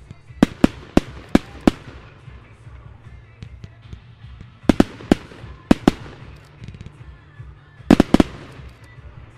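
Fireworks bursting in the air with sharp bangs: a quick series of five starting about half a second in, four more around five to six seconds, and a tight cluster of three near the end.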